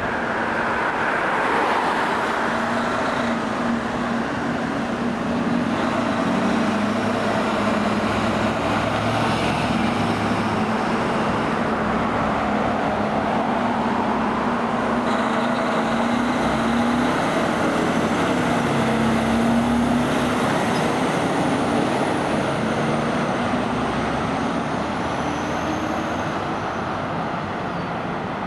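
Fire engine and road traffic going by: steady engine and tyre noise with a wavering low drone, and a brief air-brake hiss among it.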